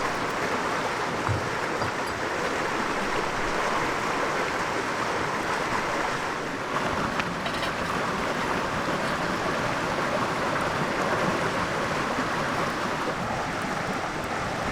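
River water flowing steadily past the bank: an even rushing with a few faint ticks partway through.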